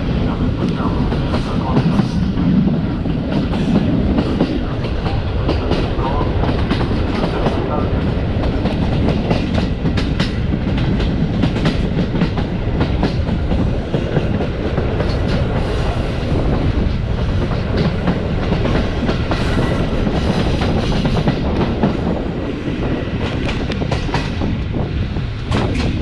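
Passenger train carriage running along the track, its wheels knocking and clacking over rail joints amid a continuous rolling rumble.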